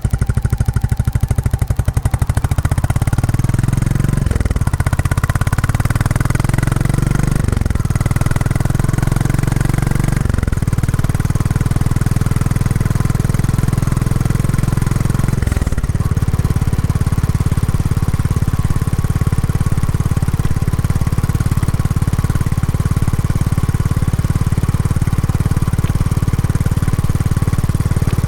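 Royal Enfield Classic 350's single-cylinder engine running through its stock exhaust during break-in, its note dropping and picking up again about four times in the first half, then holding steady.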